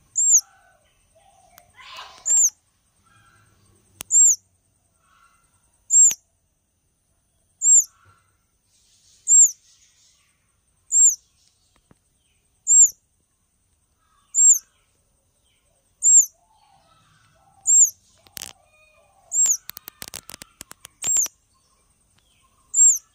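A small bird gives a high, thin chirp, each one a short hooked note, repeated regularly about every one and a half to two seconds. Near the end a quick run of sharp clicks comes in.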